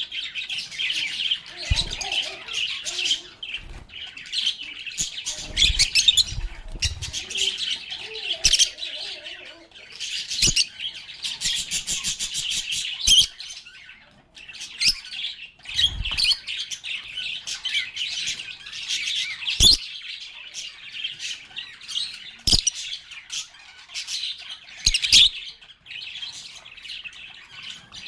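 A group of lovebirds chirping and chattering without a break, with high, rapid tweets. A few short, dull low thumps come through here and there.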